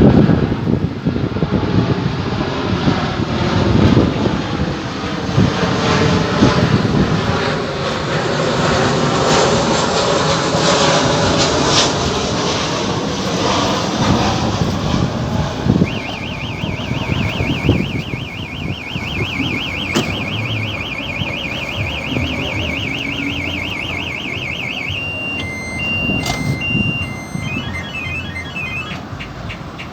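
Boeing 737-800 on final approach, its CFM56 jet engines a loud rushing rumble that swells as it passes, with wind on the microphone. From about halfway an electronic alarm warbles rapidly for several seconds, then breaks into short beeps near the end.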